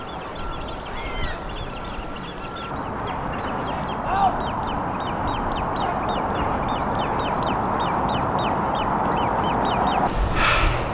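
Birds calling outdoors: a rapid run of short, high, falling chirps repeated about three times a second, with a lower rising call about four seconds in, over a steady background rush.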